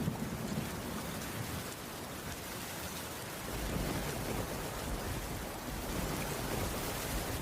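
Heavy rain falling steadily, an even hiss, with a low rumble swelling in about halfway through.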